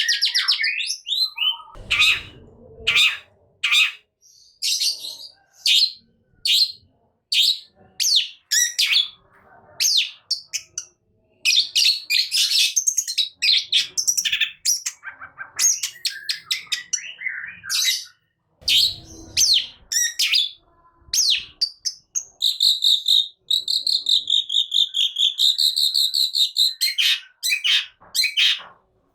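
Long-tailed shrike (cendet) singing hard: a rapid run of short, sharp chirps and calls, then a longer warbling trill about three-quarters of the way through.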